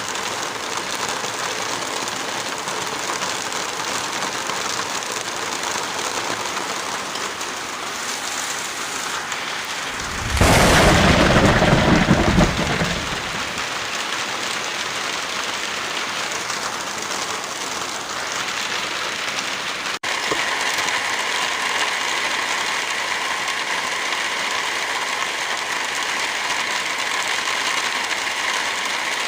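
Heavy rain with a steady hiss. About ten seconds in, a louder rush with a deep rumble lasts a little over two seconds. About twenty seconds in, the sound cuts off for an instant and the rain resumes slightly louder, with a different texture: a splice to another rain recording.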